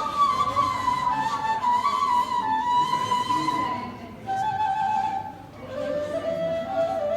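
Music: a slow flute melody moving in steps between held notes, falling lower about halfway through.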